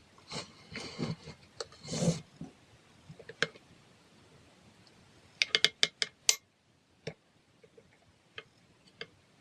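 Irregular clicks and light knocks from small hard objects being handled, with a quick run of about six sharp clicks around five and a half seconds in.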